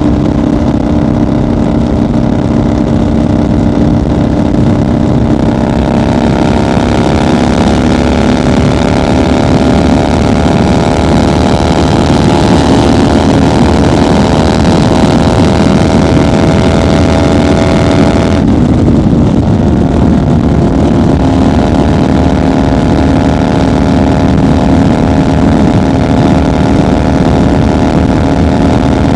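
1990 Harley-Davidson FXR's Evolution V-twin running at highway speed. Its note climbs slowly for several seconds, drops suddenly about two-thirds of the way through as the throttle comes off or it shifts, then holds steady.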